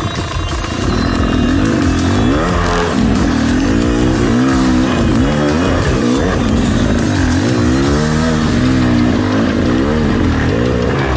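Rieju MR300 enduro dirt bike engine riding off-road, its revs rising and falling over and over as the throttle is worked.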